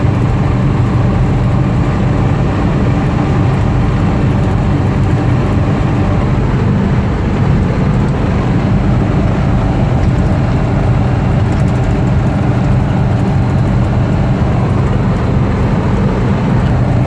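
1956 Ford Thunderbird's 312 V8 running steadily under way at cruising speed, heard inside the car with the engine hum, road noise and wind noise.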